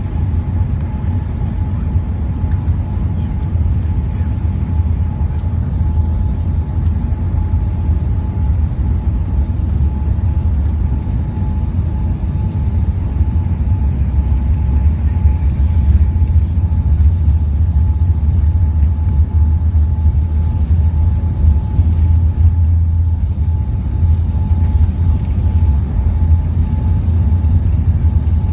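Airbus A380 taking off: a loud, steady low rumble of jet engines at takeoff power, with a thin steady tone above it, growing a little louder about halfway through.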